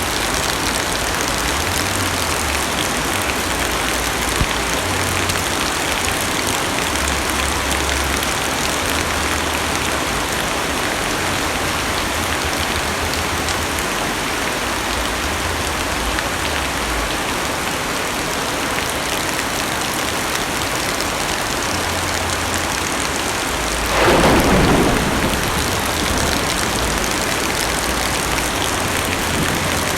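Heavy rain drumming steadily on a car's roof and windows, heard from inside the cabin. About three-quarters of the way through, a clap of thunder, the loudest moment, falls away into a low rumble within a second or two.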